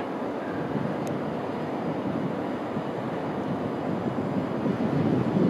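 Tokaido Shinkansen train running past at speed: a steady rushing rumble that grows louder near the end.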